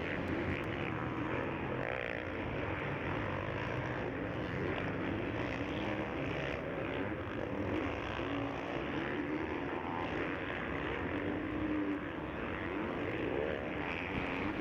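Motocross bikes racing on the track, their engines running hard and revving up and down as riders work the throttle.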